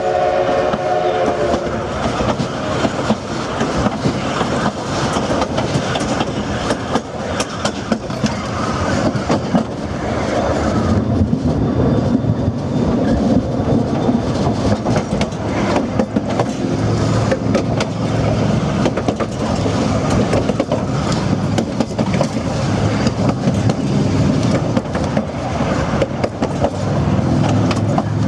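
Narrow-gauge steam train running, heard from the rear car: a steady rumble and rattle of wheels on rail with many quick clicks over the joints. The locomotive's steam whistle sounds a chord of several tones at the start and stops about a second and a half in.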